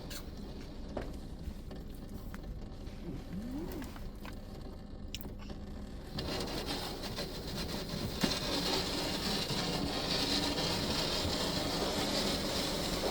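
Belanger Kondor KL2 touchless car wash spraying the car, heard from inside it: a low machine hum with a few clicks, then about six seconds in a steady hiss of water spray hitting the car starts and grows louder.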